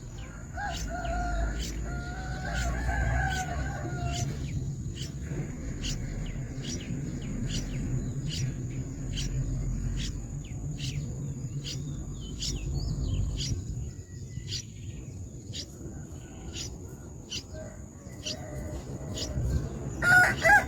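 Rooster crowing, one long drawn-out crow a few seconds in and louder calls again near the end, over a steady series of short high chirps about one and a half a second and a constant thin high whine.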